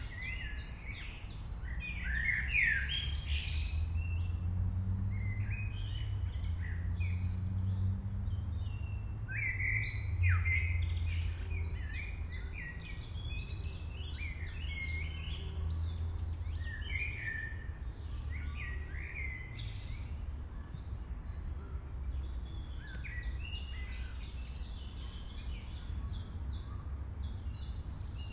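Wild birds singing and chirping throughout, in runs of short, quick notes, over a steady low rumble.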